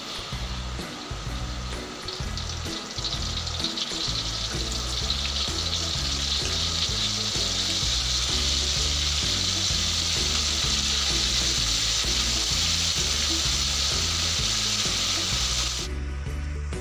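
Pieces of cassava deep-frying in hot oil in a wok, a steady sizzle that builds over the first few seconds and cuts off abruptly near the end. Background music runs underneath.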